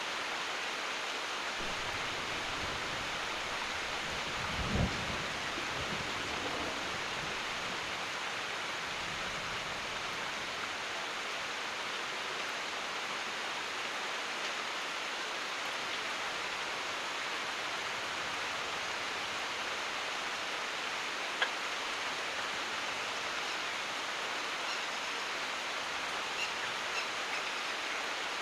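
Steady heavy rain hissing throughout. A low roll of thunder rumbles from about two seconds in, swells briefly near five seconds and fades out by about nine. A single sharp tick comes about twenty-one seconds in, and a couple of faint ticks come near the end.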